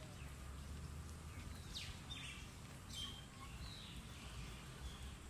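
Birds chirping: a few short, quick, falling chirps in the middle of the stretch, over a steady low background rumble.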